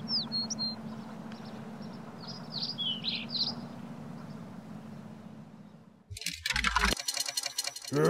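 Small birds chirping and twittering in short, quick, falling calls over a faint steady low hum of outdoor ambience. About six seconds in, a sudden loud rushing noise with a low rumble and crackling cuts in.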